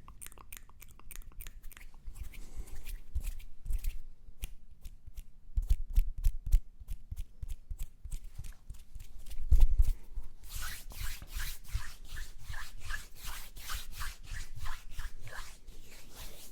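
ASMR mouth and hand sounds: irregular rapid clicks and rubbing, with a few heavy low thumps in the middle. From about ten seconds in comes a faster run of sharper, brighter clicks.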